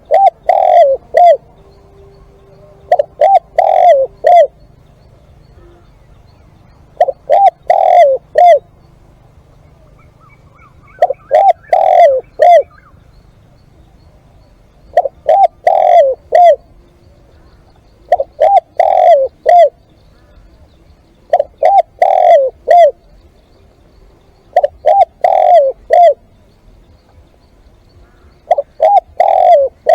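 Spotted dove cooing: a loud phrase of three or four low coos, repeated about every three to four seconds.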